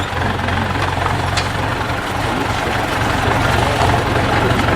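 IFA W50 truck's diesel engine running steadily at low revs, slowly growing louder.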